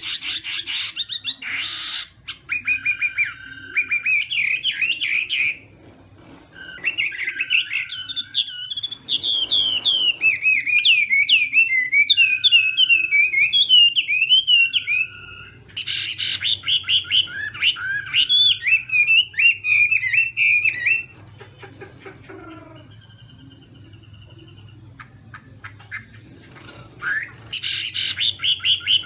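Chinese hwamei singing loud, varied phrases of rapid whistled notes that glide up and down, in long strings. The bird breaks off for about five seconds in the second half, then starts again near the end.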